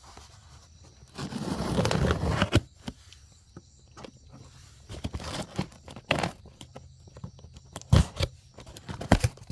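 Packaging being handled and opened: rustling and crinkling with scattered clicks and a few sharp knocks, as a new set of vehicle park lights is unpacked.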